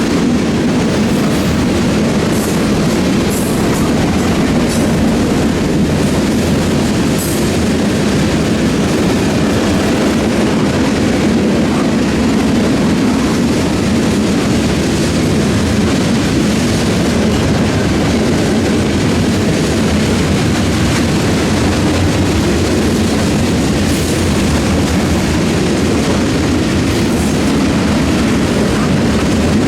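Train cars rolling past steadily, wheels running on the rails with a continuous loud rumble and a few faint clicks.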